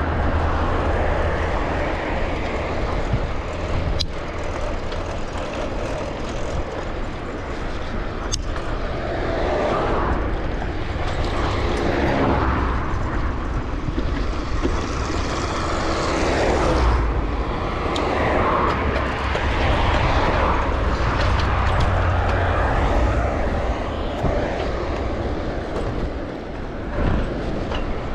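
Steady wind rumble on the microphone with rolling noise from a bicycle ride, swelling and easing, broken by a few sharp clicks.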